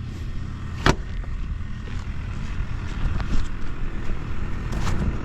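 Honda Dax 70 (ST70) single-cylinder four-stroke engine running with a steady low putter, free of abnormal noise by the seller's account. A sharp click comes about a second in.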